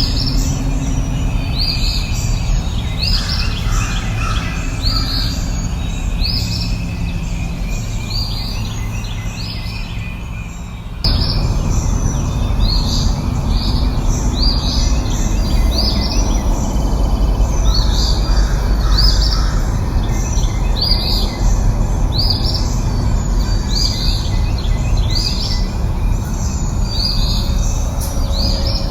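A bird repeating a short, high, downward-sliding call about once a second over a steady low rushing background noise. The background steps up abruptly in loudness about eleven seconds in.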